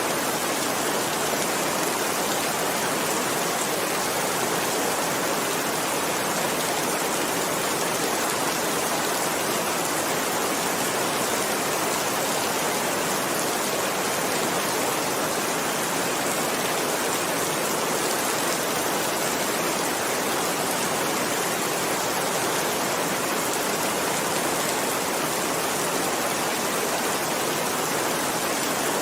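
Steady heavy rainfall, an even hiss that does not let up.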